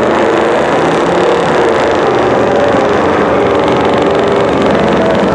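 Engines of a twin-turbo 2015 Mustang GT and an older pickup truck running steady and loud in the drag strip's lanes before a quarter-mile pass.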